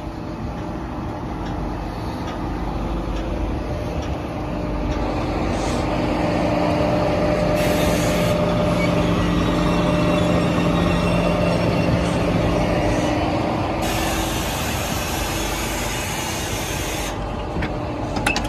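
TGV inOui high-speed train at the platform: a steady hum of its running equipment with a few held tones. Compressed air hisses twice, briefly about halfway and for about three seconds later on.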